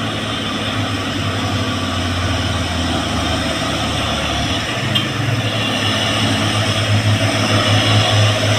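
Heavy diesel truck engine labouring up a steep climb: a steady low drone that grows louder about five and a half seconds in.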